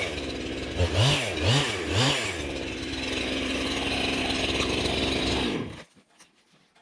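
Jonsered 2165 two-stroke chainsaw revved in three quick blips, then idling steadily before it is shut off and stops near the end.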